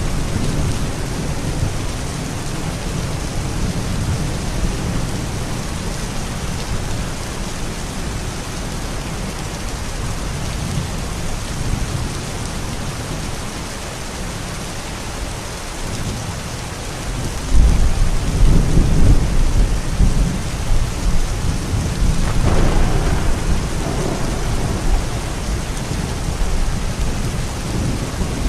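Steady heavy rain with low rumbling thunder; a louder roll of thunder comes in about two-thirds of the way through and rumbles on for several seconds.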